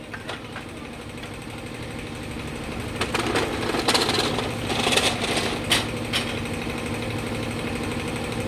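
A power tool rattling in short runs over a steady machine hum, loudest a few seconds in.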